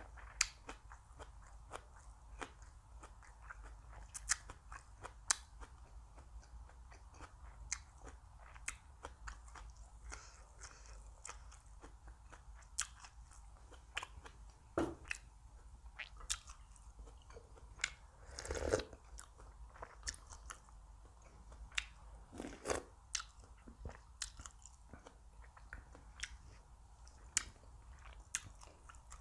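A person eating close to the microphone: chewing and crunching bites with frequent sharp clicks, and a few louder bites about halfway through and near two-thirds of the way in.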